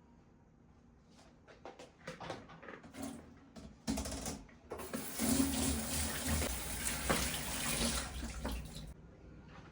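A water tap running into a sink for about five seconds, then shut off abruptly, after a few light clicks and knocks of handling.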